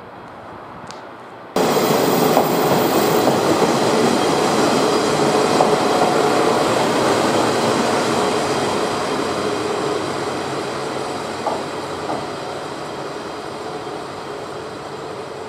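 KiHa 125-400 diesel railcars of the Umisachi Yamasachi train pulling into a station platform, the engine and wheels on the rails running loud and close. The sound is fainter for the first second and a half, then suddenly loud, and eases off gradually as the train slows, with a couple of light wheel clacks near the end.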